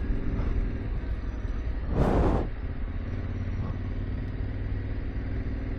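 Yamaha Ténéré 700's parallel-twin engine running steadily at low revs, with a short rushing noise about two seconds in.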